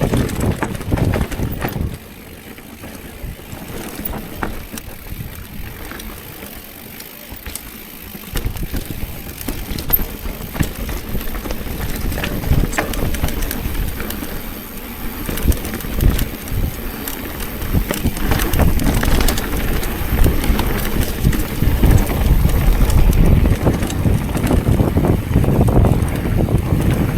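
Riding a bicycle down a rough trail: wind buffets the microphone, and the tyres and frame rumble and rattle over the ground. It eases off for a few seconds near the start, then grows louder and busier through the second half.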